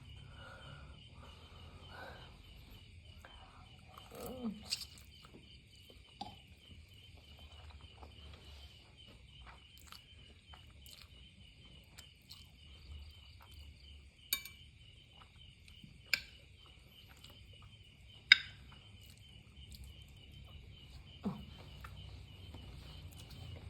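Eating sounds from a noodle mukbang: several sharp clinks of utensils against a bowl, loudest in the second half, with soft mouth noises in between. Steady, finely pulsing chirping of crickets runs underneath throughout.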